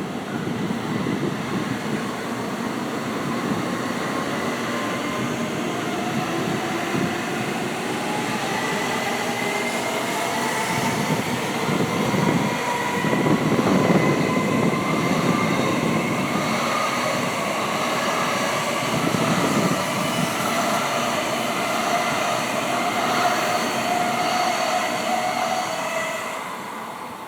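A Tokaido Shinkansen train pulling out and gathering speed. Its electric traction motors whine in several tones that slowly rise in pitch over a steady rumble of wheels on rail. The sound is loudest partway through and fades near the end as the train moves away.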